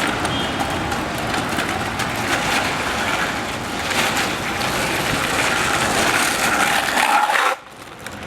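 Streetboard wheels rolling over pavement on newly fitted trucks, a steady gritty rumble with a few light clicks, cutting off abruptly near the end.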